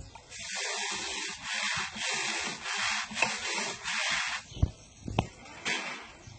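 Scrubbing a bird cage with repeated back-and-forth strokes, about two a second for around four seconds, followed by a few light knocks.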